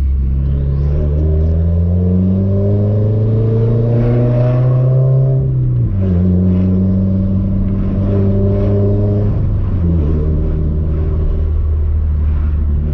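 Nissan 240's engine through an ETS Extreme catback exhaust while driving: the exhaust note climbs steadily under acceleration for about six seconds, drops sharply at a gear change, holds steady, then steps down again about ten seconds in and stays level.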